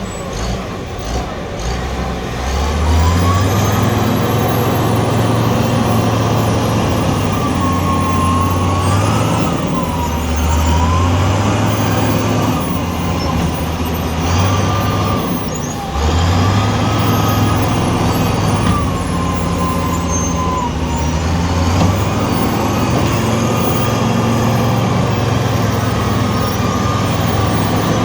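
Michigan 55C wheel loader's diesel engine revving and working under load, with a whine that rises and falls. The revs drop briefly about halfway through, then climb again.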